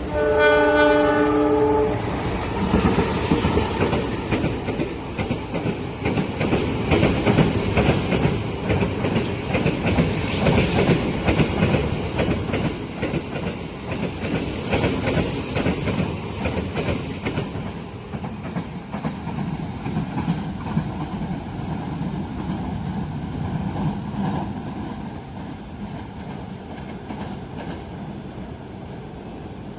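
A train horn sounds a chord that cuts off about two seconds in. A long train then passes close by, its wheels clacking and rattling over the rails, the noise slowly dying away toward the end.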